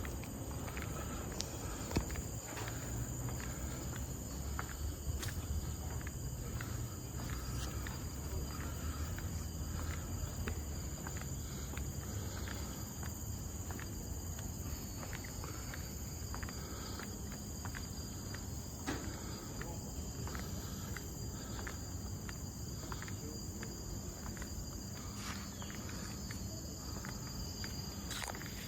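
Steady high-pitched drone of forest insects, with the footsteps of someone walking, about two steps a second.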